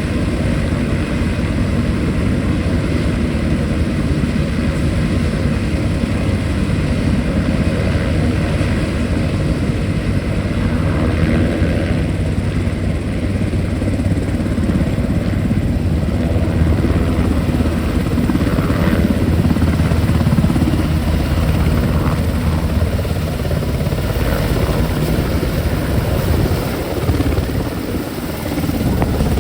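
Military helicopter's rotor and turbine running loud and steady during takeoff, with the level dipping briefly near the end.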